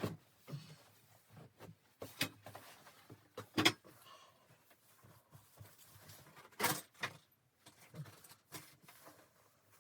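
Irregular knocks, clunks and light rustling of objects being handled in a small enclosed space, with the loudest knock a little past a third of the way in.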